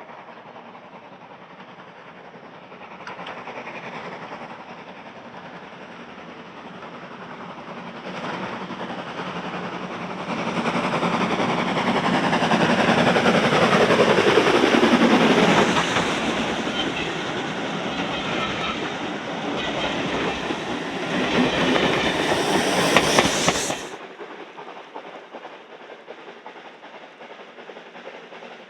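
A train passing, its wheels clattering over the rail joints. The sound swells to a peak and drops in pitch as the train goes by, then cuts off suddenly near the end.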